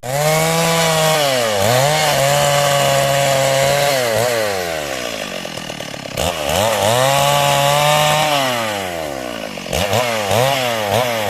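Stihl MS 382 two-stroke chainsaw revved up and held at a steady high speed while sawing timber, dropping back toward idle about four seconds in. It revs up and holds again, then falls off, with a couple of quick blips of the throttle near the end.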